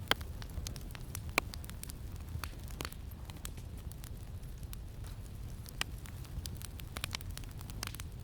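Campfire crackling, with irregular sharp pops, the two loudest near the start and about a second and a half in, over a steady low wind rumble.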